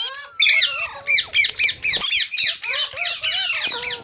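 Ringneck parrot squawking in a fast run of short, shrill calls, about four or five a second, starting about half a second in.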